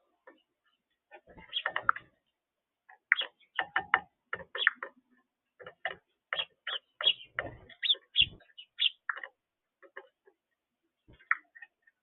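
Birds pecking and moving about on a feeder: an irregular run of sharp taps and clicks, several a second, thinning out near the end.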